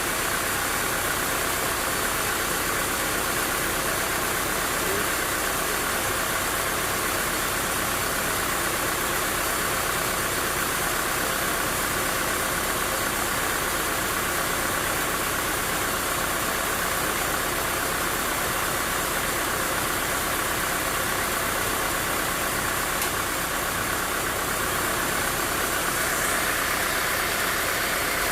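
Sawmill machinery running steadily: a constant engine-like drone with a hiss, even in level throughout.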